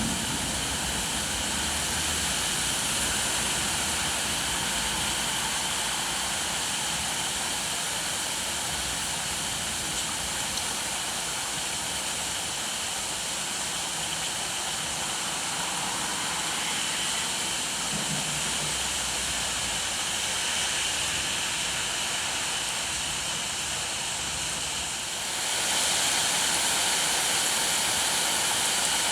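Steady rain falling, a continuous even hiss that turns louder and brighter about 25 seconds in.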